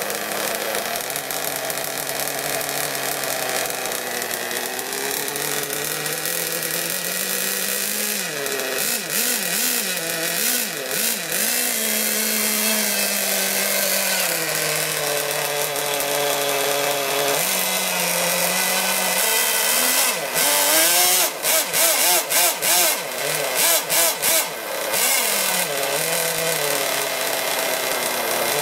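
Small two-stroke nitro glow engine of a modified Pro Boat Blackjack 26 RC boat running out of the water, its pitch rising and falling as the throttle is opened and closed. Between about 20 and 25 seconds in, the sound chops in and out sharply several times.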